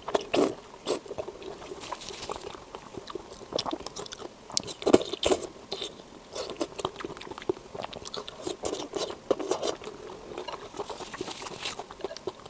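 Close-miked chewing and biting of food: irregular clicks and smacks of the mouth, with a louder bite about five seconds in.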